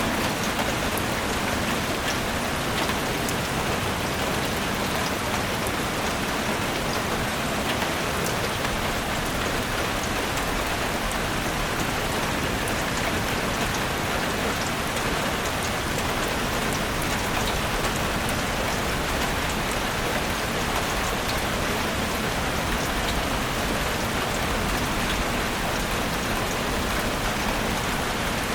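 Steady rain falling, with many individual drops pattering on leaves and surfaces; no thunder.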